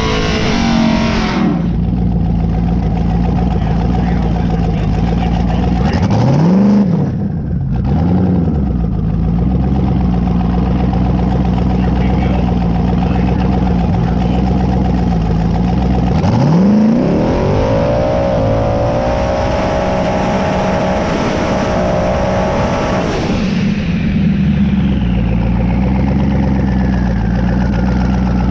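Drag-race car engine idling steadily, then revved twice briefly a few seconds in. About sixteen seconds in it launches, its pitch climbing for some seven seconds at full throttle before the throttle cuts off abruptly, followed by a falling whine.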